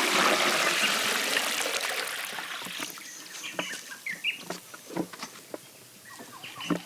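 Water splashing and pouring, loud at first and dying away over about three seconds, followed by a few hollow knocks and small birds chirping.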